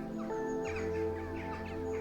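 Soft ambient music of sustained chord tones, with a deeper tone coming in under it partway through, and bird calls layered over it: short falling chirps repeating several times a second.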